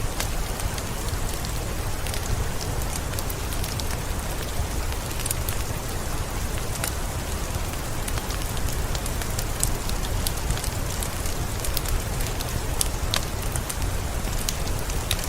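Steady rain mixed with a crackling wood fire: an even hiss over a low rumble, with scattered sharp crackles and pops.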